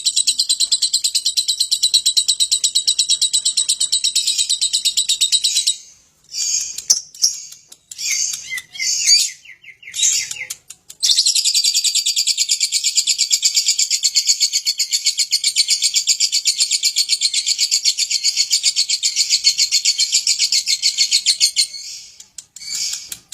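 Lovebird singing in long, rapid, high-pitched chattering trills: one runs about six seconds, a few short broken chirps follow, then a second trill of about ten seconds, ending in short chirps.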